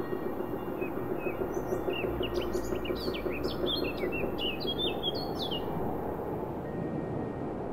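Small songbird chirping a quick series of short, sliding high notes for a few seconds, over a steady rushing background hiss and a low rumble.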